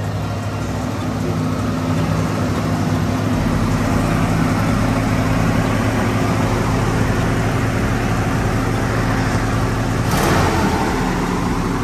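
Box-body Chevrolet Caprice V8 idling steadily through a single Flowmaster-style muffler, with a short louder burst of noise about ten seconds in.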